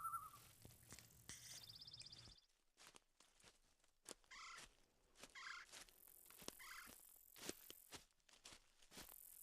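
Faint footsteps crunching on the forest floor, with faint bird calls: a brief high trill about a second and a half in, then three short calls about a second apart.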